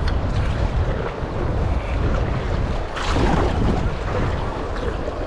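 Wind buffeting the microphone over moving river water, a steady low rumble, with a louder rush of water about three seconds in.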